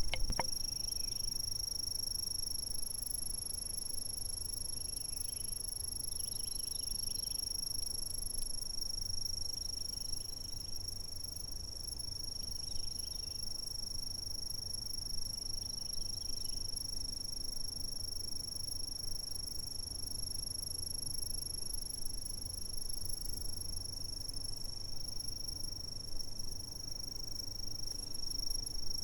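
Insects chirping: one high, steady trill that holds unbroken throughout, with fainter, lower chirps from other insects coming and going, over a faint low rumble.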